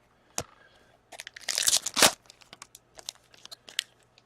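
Plastic wrapper of a trading-card pack crinkling and tearing, loudest between about one and two seconds in, followed by scattered light clicks as the cards are handled.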